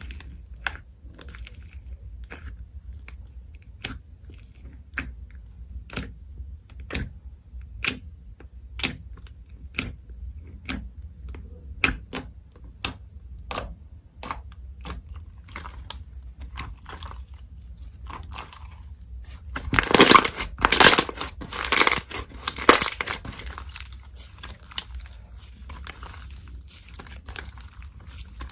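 Slime being handled: sharp pops and clicks about once a second, then a louder spell of crackling and squelching about two-thirds of the way through.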